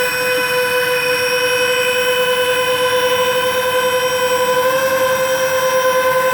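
Twin electric ducted fans of a radio-controlled Airbus A330-600 model airliner in flight, a steady whine that rises slightly in pitch about five seconds in.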